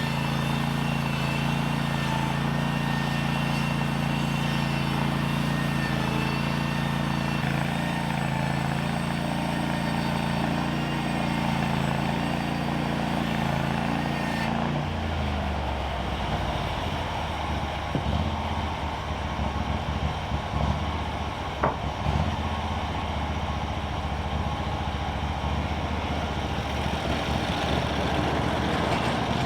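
An engine running steadily, then dropping to a lower, rougher speed about halfway through, with a single sharp click later on.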